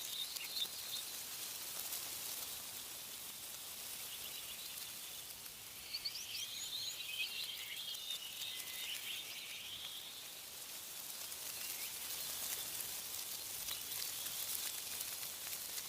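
Birds chirping in a quick cluster of calls from about six to ten seconds in, over a steady high hiss of wind rustling tree leaves.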